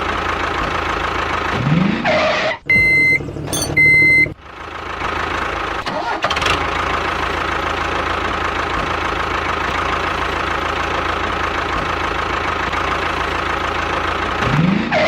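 Mini tractor engine running steadily, with a short rising rev about two seconds in and again near the end. Two short horn beeps sound around three and four seconds in.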